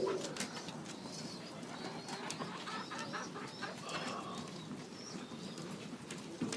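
Birds calling outdoors: many short high chirps and trilling calls, with low pigeon cooing.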